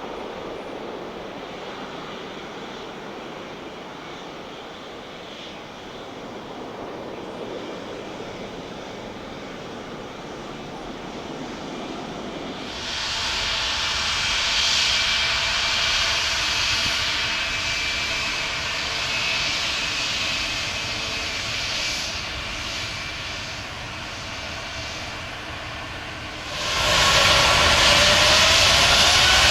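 Jet airliner engines: an even rushing noise at first, then a louder high whine coming in about halfway. Near the end a sudden, much louder jump follows, with tones rising as the engines spool up.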